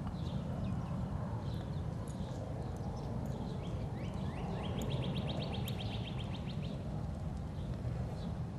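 Songbirds singing: scattered short, high chirps, and a little past the middle a bird's rapid, even trill lasting about two seconds. Under them runs a steady low background rumble.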